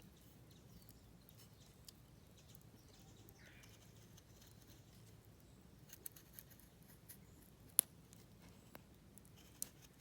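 Knife shaving feather curls into a cherry-wood stick: faint, scattered scraping clicks in the second half, with one sharper click near the end.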